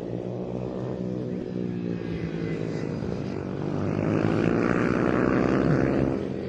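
Several 110cc mini racing motorcycles running at speed, their engine notes rising and falling as they pass. The sound is loudest about four to six seconds in as the bikes come closest.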